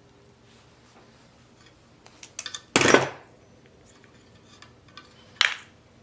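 Metal parts or tools being handled and set down: a few light clicks, then a loud metallic clank about three seconds in and another sharp clank near the end.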